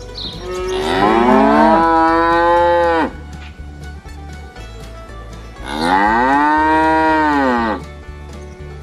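A cow mooing twice in two long calls, each lasting about two to two and a half seconds. The first rises in pitch and then holds; the second arches up and falls away.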